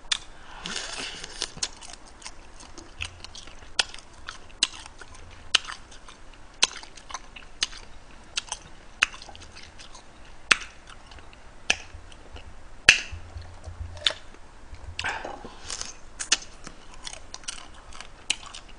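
Close-up eating sounds of a man chewing and sucking meat from boiled blue crab: sharp cracks and crunches of shell come every second or so, with longer sucking sounds about a second in and again around fifteen seconds in.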